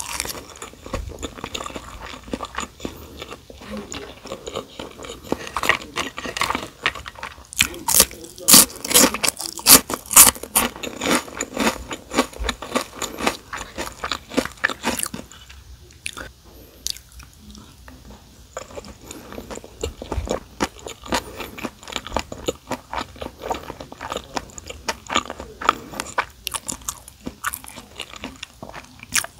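Close-up chewing of crispy gim bugak (fried seaweed chips): sharp, crisp crunches, loudest about a third of the way in, softer chewing near the middle, then more crunches.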